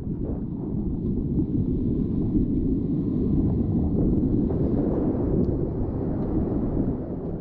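Steady rushing of the White Salmon River's whitewater around a kayak, heard muffled, with most of its energy low down and a few faint splashes on top.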